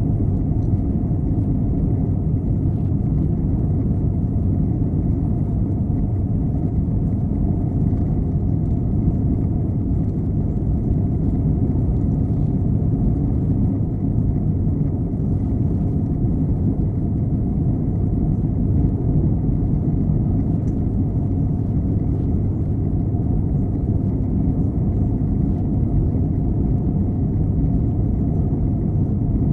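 Steady cabin rumble inside an Airbus A321 in flight: jet engine and airflow noise, deep and even, with a faint thin high whine above it.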